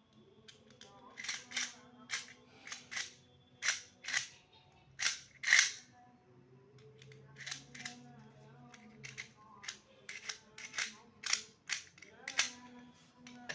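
Irregular sharp clicks and snaps of hard plastic toy parts being handled and fitted together, about twenty in all.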